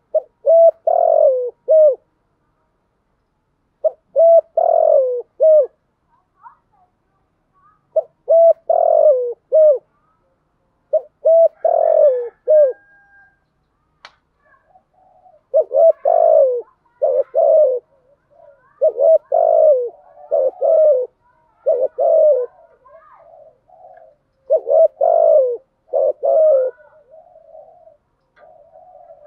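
Spotted dove cooing in short phrases of several low coos. A phrase comes every few seconds at first, then the phrases follow each other almost without a break in the second half. There is a single sharp click about halfway through.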